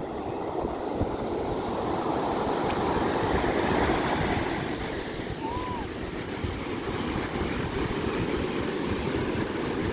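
Surf washing onto the beach at high tide, with wind buffeting the microphone; the wash swells to its loudest about three to four seconds in. A brief high chirp sounds about halfway through.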